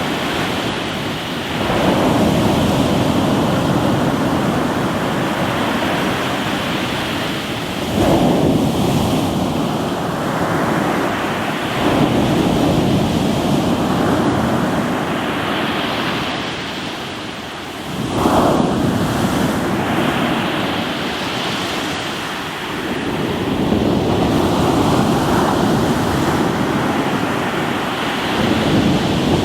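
Sea waves breaking on a rocky shore: a continuous rush of surf that swells into a loud break every four to six seconds, five times in all.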